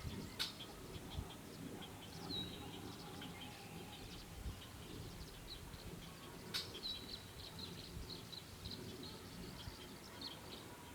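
Faint chorus of birds: many short chirps and calls from several birds. Two sharp clicks stand out, one near the start and one a little past the middle.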